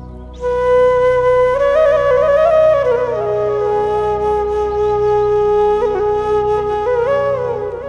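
Music: a slow flute melody of long held notes over a steady drone, the flute coming in about half a second in.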